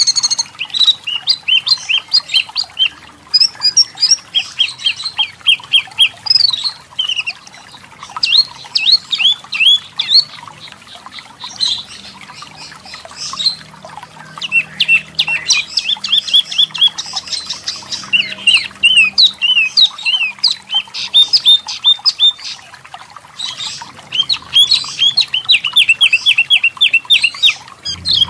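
Wambi mini (tepus lurik) calling: rapid runs of short, sharp chirps, each run lasting a second or two, with brief pauses between them.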